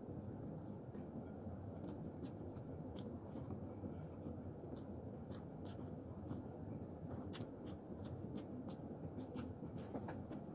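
Faint eating sounds: a person chewing a mouthful of rice and fish, with small scattered clicks of mouth and fingers, over a steady low hum.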